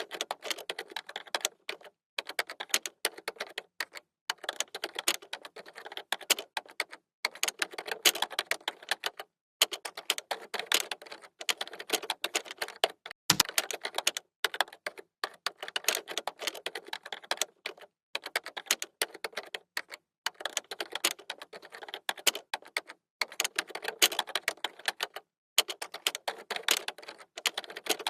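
Computer keyboard typing: fast runs of key clicks broken by short pauses every second or two, with a single heavier low thump about halfway through.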